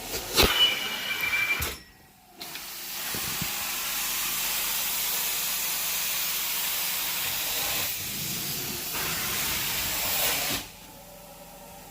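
Carpet-cleaning equipment hissing steadily for about eight seconds, after a sharp click and a short pause early on; the hiss cuts off suddenly near the end.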